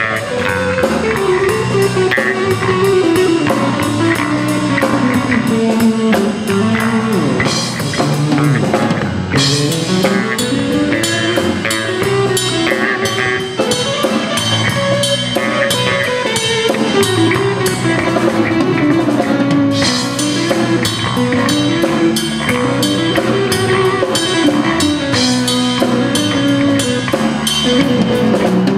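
Live rock band playing: a drum kit keeps a steady beat under a winding guitar melody.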